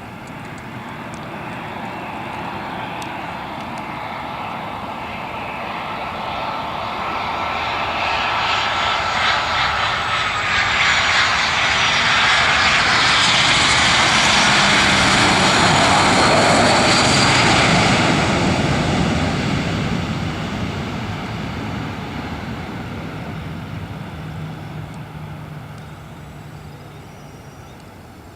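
Boeing 737-700's CFM56-7B turbofan engines as the airliner comes in to land, growing louder to a peak in the middle and then fading, with whines that fall in pitch as it passes.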